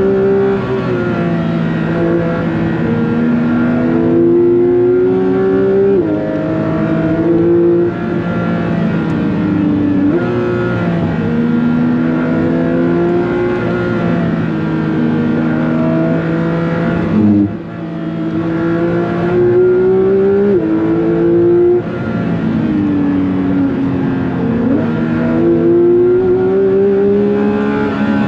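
Porsche 911 GT3 (992.2) naturally aspirated 4.0-litre flat-six engine under hard acceleration, its pitch climbing through the revs and dropping sharply at each quick upshift, several times over. A little past halfway the revs fall away and the sound dips briefly before building again.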